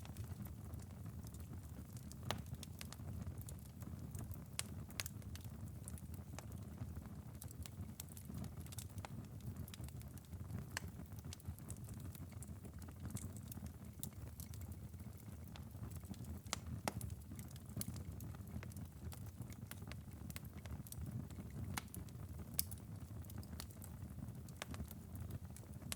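Wood-burning fireplace ember bed crackling: irregular sharp pops and ticks, a few louder than the rest, over a low steady rumble.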